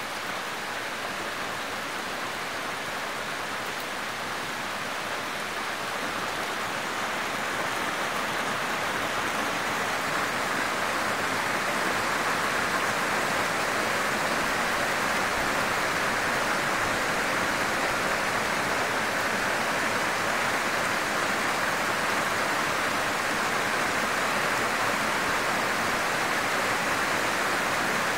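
Heavy rain pouring down steadily, a dense even hiss that grows a little louder over the first ten seconds or so and then holds.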